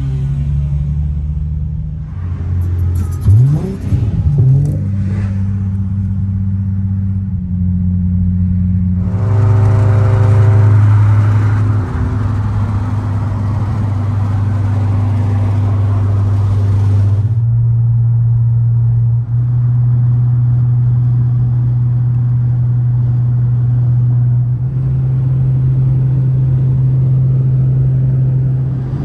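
Car engine running under way, its note holding steady and then stepping to a new pitch several times through the first half, as at gear changes, then settling into a steady drone for the last ten seconds or so.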